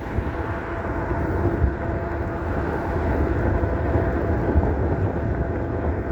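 5,000-watt dual-motor electric bike riding at a steady cruising speed: a steady motor hum over rumbling wind and tyre noise.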